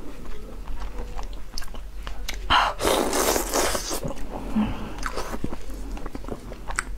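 Close-miked mouth sounds of a person chewing and sucking on pieces of fish in chili sauce, with many small wet clicks. One louder, longer wet sound comes about two and a half seconds in.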